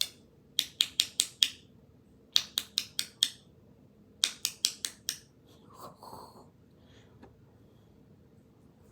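Rapid sharp clicks in quick runs of four or five, repeated in three groups over about five seconds, followed by a short faint sound about six seconds in.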